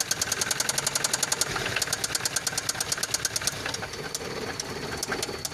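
A 1.3-litre engine running at idle with a fast, even metallic knocking ticking over it, a noise the owner cannot place. The ticks thin out and turn irregular a little over halfway through.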